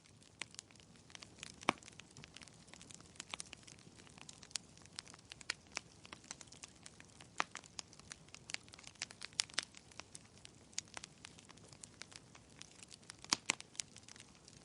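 Wood fire crackling in a fireplace: irregular sharp pops and snaps over a soft steady hiss, with louder pops about two seconds in and again near the end.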